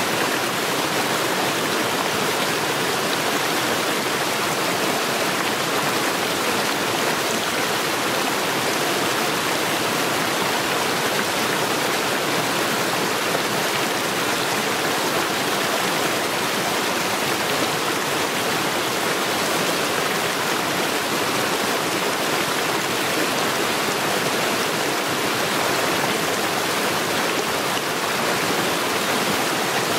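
Stream water rushing steadily over stones, an even, unbroken rush of running water.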